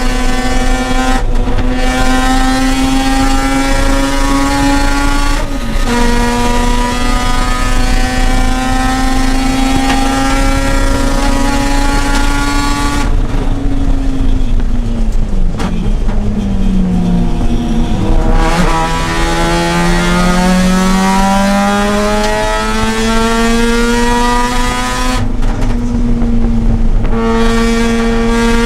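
Mazda RX-8's two-rotor rotary engine being driven hard on track. It pulls through two upshifts in the first few seconds, holds a steady pitch, then lifts off about halfway through, with the pitch dropping and jumping through downshifts. It then climbs again under acceleration, with another upshift near the end.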